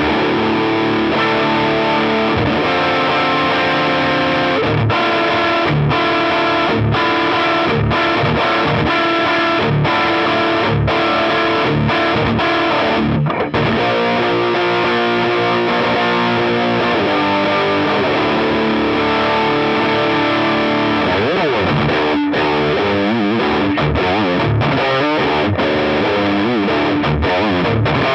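Clifton dual-humbucker Telecaster-style electric guitar played through distortion and effects, a continuous stretch of chords and lines with frequent picked attacks.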